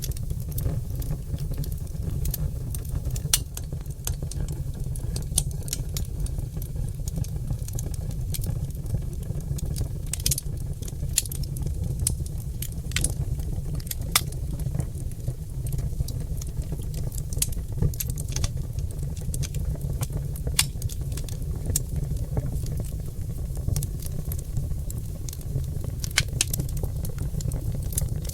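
Oak logs burning in a fireplace, crackling and popping with many irregular sharp snaps over a steady low rumble.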